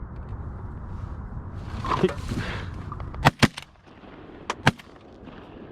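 Shotgun shots fired at incoming ducks: four sharp reports in about a second and a half, a quick pair followed by another pair.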